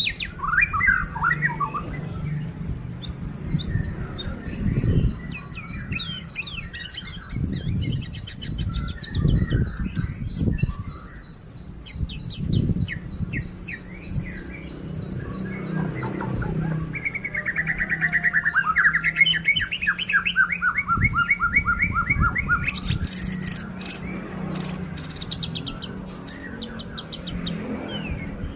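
White-rumped shama (murai batu) singing a long, varied song of whistles, fast trills and rapid repeated phrases, with dull low thumps underneath now and then.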